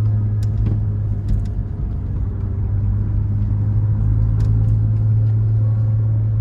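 Motor vehicle driving, a steady low engine and road drone, with a few sharp ticks, about three, over the top.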